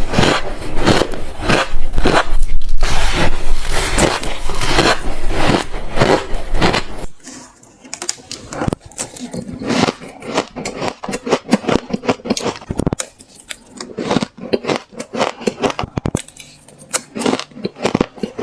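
Soft, frosty ice chunks being bitten into and chewed close to the microphone, one crunch after another. After about seven seconds the crunching turns quieter, with separate sharp crunches.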